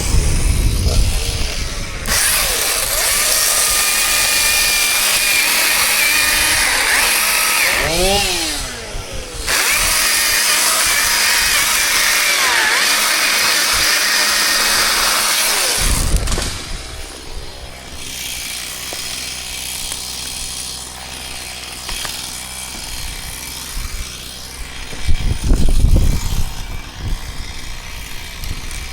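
Chainsaw cutting at full throttle, easing off and revving back up about eight seconds in. Around halfway it drops to a quieter steady idle, with a low thud a few seconds before the end.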